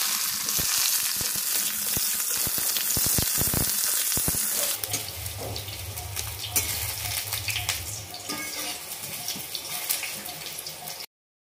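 Pieces of brinjal sizzling as they fry in hot mustard oil in an aluminium kadai. The sizzle is loud for the first few seconds, then drops quieter about five seconds in, with occasional clicks and scrapes of stirring.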